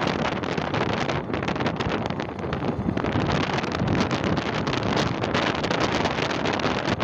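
Strong wind noise on the microphone: a steady rush with rapid buffeting.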